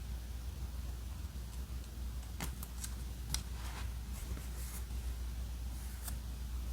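Paper crafting handling sounds: a few scattered light clicks and soft rustles of paper and stickers being worked, over a steady low hum.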